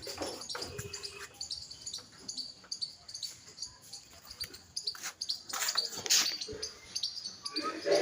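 High-pitched animal chirps repeating again and again, with a louder noisy burst about six seconds in.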